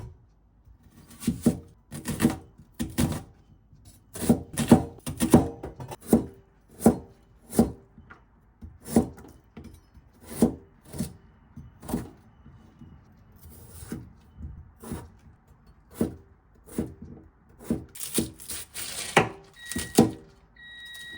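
A run of irregular sharp knocks and thuds, about one or two a second, over soft background music.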